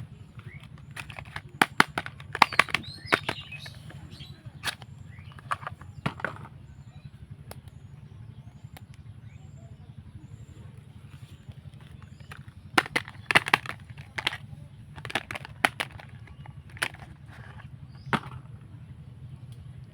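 Soap packaging being unwrapped by hand: sharp crinkles and crackles of wrapper in two bursts, a couple of seconds in and again past the middle, with a lone crackle near the end, over a steady low hum.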